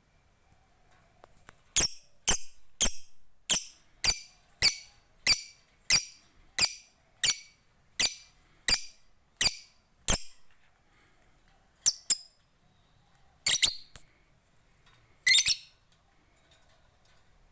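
Lovebird ngekek: a long run of about fifteen sharp, high, shrill calls, evenly spaced at about one and a half a second for some eight seconds, then three more single calls after short pauses.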